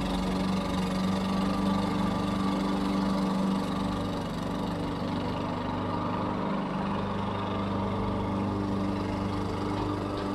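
Lawn mower engine running steadily, its drone easing slightly for a few seconds in the middle before settling back.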